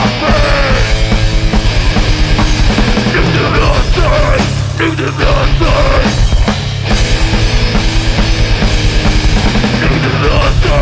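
Hardcore punk band playing loud, fast music with guitars, bass and drums, with a couple of short breaks near the middle.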